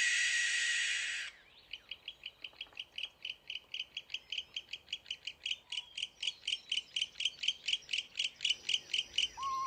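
Barn owl's call, a harsh hissing screech lasting just over a second. Then comes a long run of short high chirps, about five a second, slowly growing louder. Near the end a lower, falling whistle begins.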